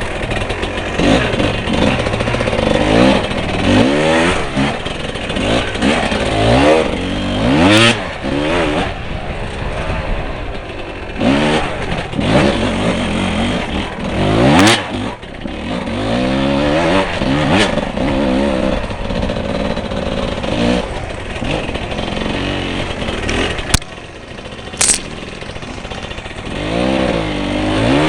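Off-road motorcycle engine revving up and dropping back over and over, its pitch rising and falling every second or two as the throttle is worked.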